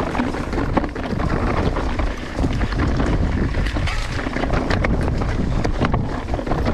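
Wind buffeting a GoPro microphone on a mountain bike ride, a heavy steady rumble, with frequent sharp clicks and knocks of the bike over rough trail.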